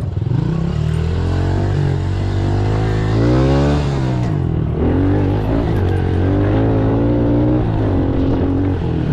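Pit bike engine running as it is ridden, revving up and falling back about three to four seconds in, then holding a steady pitch.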